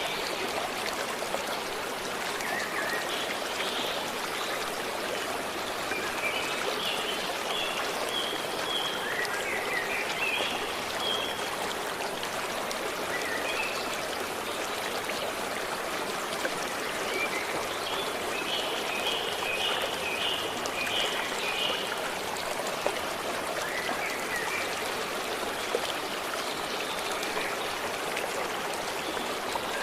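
A stream running steadily, with birds singing short phrases of high chirps now and then over it, including a quick run of repeated notes a little past the middle.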